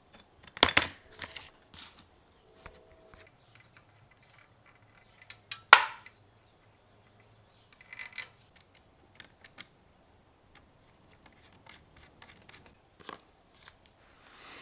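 Metal tools and parts handled in a workshop: scattered sharp knocks and clinks, the loudest about a second in and just before the middle, where one clink rings briefly with a high tone.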